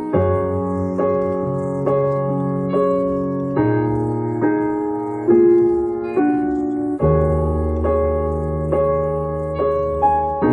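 Slow piano intro to a song: evenly paced notes about once a second over sustained low bass notes, with no singing yet.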